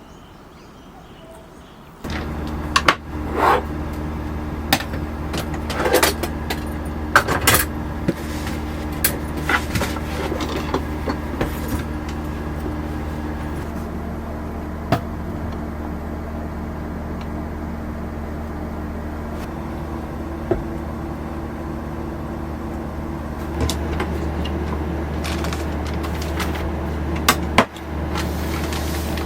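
A steady low mechanical drone that starts suddenly about two seconds in, with scattered clicks and knocks over it.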